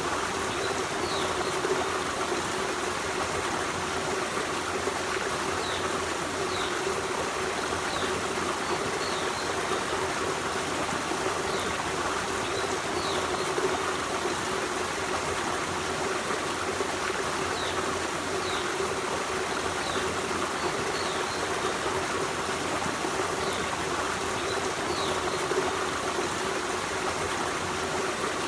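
Forest stream running steadily, an even rush and trickle of flowing water, with faint short high chirps every few seconds.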